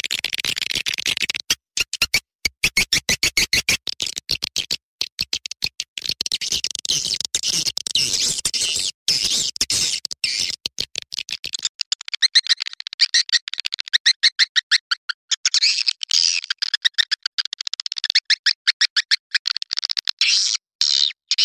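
Swiftlet calls played as a lure sound: rapid, dense chattering chirps that run on continuously. In the first half there is lower sound underneath, which stops about halfway through and leaves only the high chirping.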